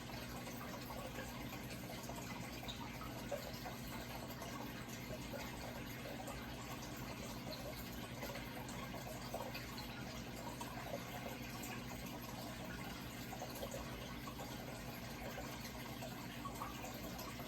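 Running water trickling steadily, with a steady low hum underneath.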